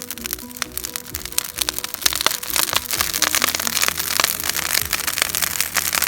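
Background music with a simple melody, laid over the dense crackling and popping of a large burning pile of timber; the crackling grows louder about two seconds in.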